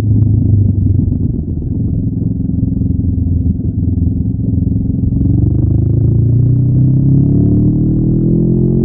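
Honda NX500's parallel-twin engine with its stock exhaust, running under way. Engine speed holds fairly even, then climbs steadily from about halfway as the revs rise.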